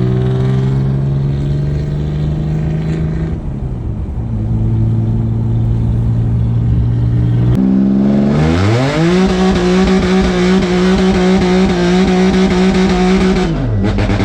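Audi S4's supercharged 3.0-litre V6 running at steady low revs. About seven and a half seconds in it revs sharply up and holds at steady high revs for about five seconds under a loud rushing noise, then drops back to low revs near the end.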